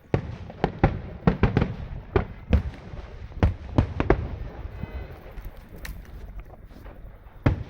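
Aerial fireworks bursting: a rapid, irregular string of sharp bangs that thins out in the middle, then two loud bangs near the end.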